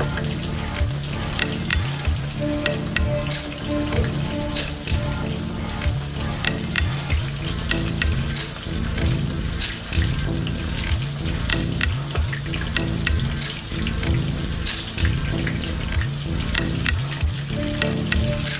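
Breaded beaver steak deep-frying in hot oil in a pan: a steady sizzle with frequent small pops and crackles.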